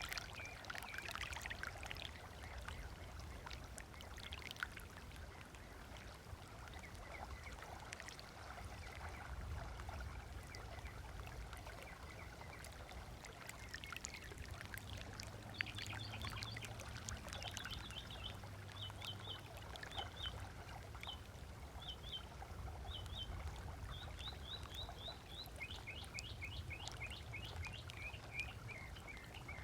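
Small waves lapping on a sandy lake shore, with a low steady rumble underneath. From about halfway in, birds call in quick runs of short, repeated high notes.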